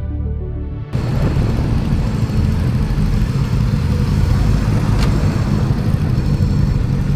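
Motorcycle riding at speed: a steady rush of wind and road noise with the engine running underneath. It takes over from music about a second in.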